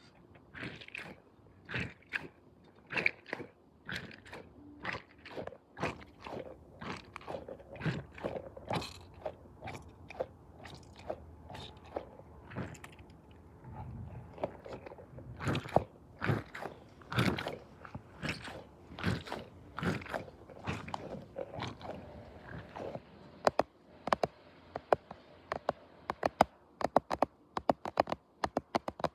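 Close-up crunching sounds, irregular at about one or two a second, giving way to quicker, sharper clicks near the end.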